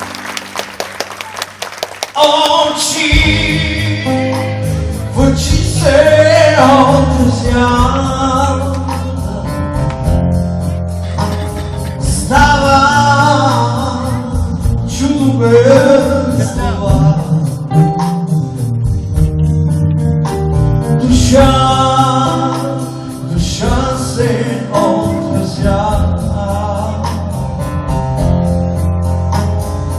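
Live rock band playing a song with a male lead singer. It opens with a couple of seconds of sharp, quick strikes, then the full band comes in loud about two seconds in.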